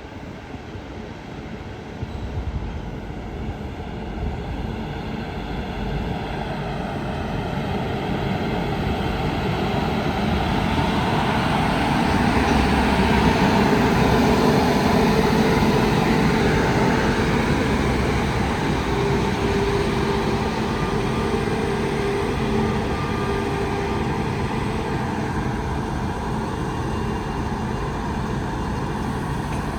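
Freight train hauled by a WAG-9H electric locomotive rolling past, growing louder over the first dozen seconds and then holding steady, with a few faint steady tones over the running noise of the wheels.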